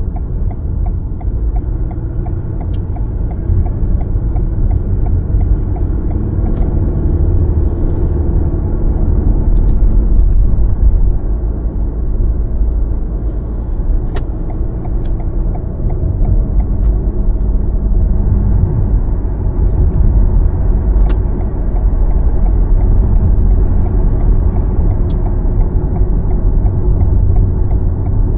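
Car driving, a steady low rumble of engine and tyre noise heard from inside the cabin, swelling and easing slightly, with a few faint clicks.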